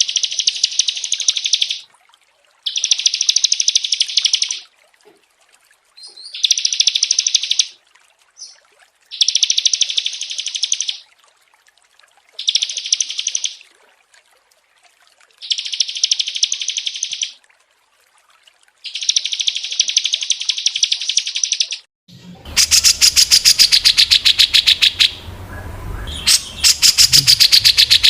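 Recorded small-songbird song: seven bursts of very fast, high-pitched trilling, each about one and a half to two seconds long, with short pauses between. About 22 seconds in it switches to a different recording of near-continuous rapid chattering over a low background hum.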